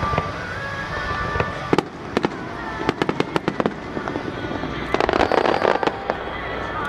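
Fireworks going off: a few sharp bangs about two seconds in, a quick run of pops about three seconds in, then a dense burst of crackling about five seconds in.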